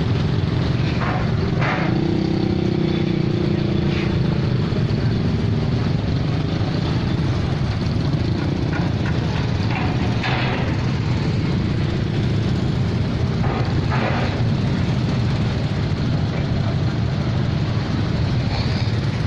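Steady low engine rumble from vehicles at a ferry crossing, with a few short sounds standing out about 1–2 seconds in, about 10 seconds in and about 14 seconds in.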